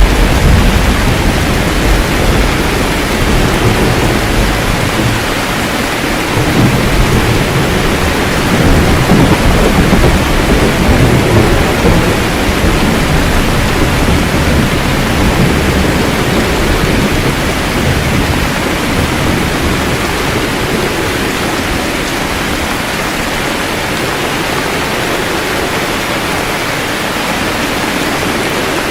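Steady heavy rain with low, rolling thunder rumbling through the first half, loudest from about six to twelve seconds in. The thunder dies away, leaving the rain alone toward the end.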